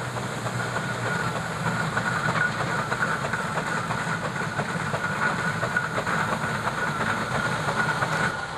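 Steam traction engine running along the road with a steady mechanical clatter and a persistent whine, cutting off abruptly near the end.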